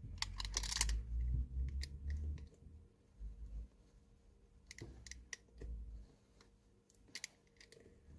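Scattered sharp clicks and dull knocks of hand tools working on a leather boot as its old glued-on sole and welt are pried and cut away. The knocking is heaviest in the first two seconds or so.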